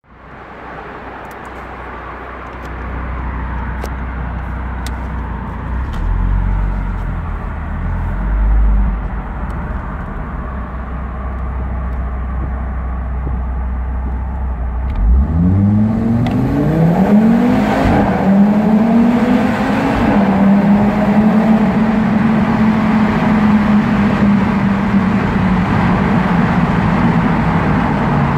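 Audi TT RS Plus turbocharged inline five-cylinder engine rumbling at low revs, then, about halfway through, accelerating hard with the revs climbing in steps through the gear changes. It then holds a steady high drone that eases down slowly near the end.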